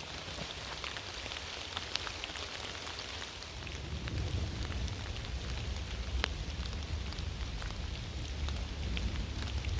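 Steady rain falling, with single drops ticking sharply now and then. From about three and a half seconds in, a low rumble joins it.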